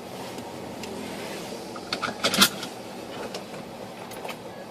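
Car engine running, heard from inside the cabin as a steady low hum, with a short cluster of sharp clicks and knocks about two seconds in.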